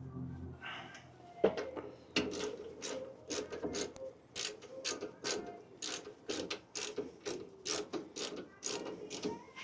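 Socket ratchet wrench clicking in quick, uneven runs of back-strokes as brake caliper bolts on a pickup are run down and tightened.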